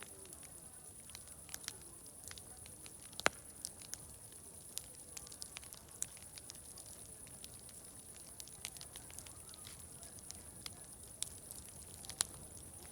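Wood fire crackling, with scattered pops at irregular intervals; the sharpest pops come about three seconds in and near the end. A steady high-pitched insect trill runs under it.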